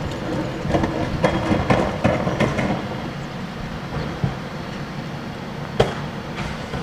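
Refuse truck running with a steady low rumble, and a run of metallic clanks and rattles in the first few seconds, then one sharp bang near the end.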